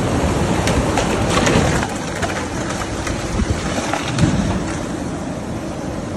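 Storm wind blowing hard: a loud, steady rush with scattered clicks and rattles.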